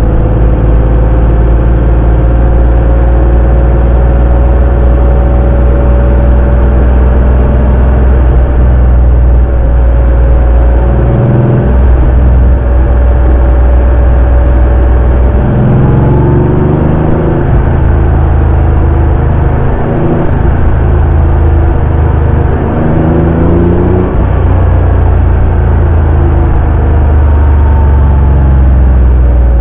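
Porsche 911 (964) air-cooled flat-six running under way. It holds a steady drone for the first half, then its pitch climbs and drops several times in the second half as the engine revs up and eases off.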